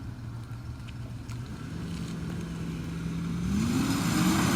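Car engine running through an 8 ft exhaust pipe extension, idling steadily, then revved up about three and a half seconds in, the pitch rising and easing back.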